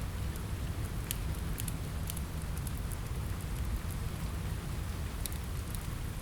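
Steady rain against a window mixed with a crackling wood fire: a continuous hiss over a low rumble, with scattered sharp crackles and pops.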